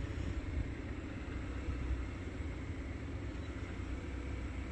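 Low, steady rumble of road vehicles idling.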